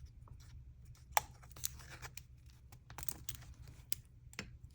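Paper being handled on a collage page: rustling and crinkling with scattered small clicks and taps, loudest a little over a second in and again around three seconds in.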